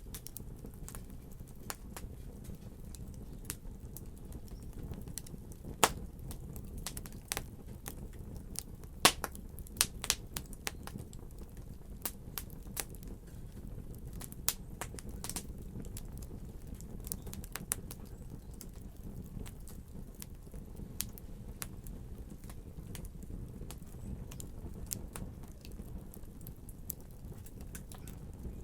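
Wood fire crackling: a steady low rumble of flames with irregular sharp pops and snaps, a few louder pops about six and nine seconds in.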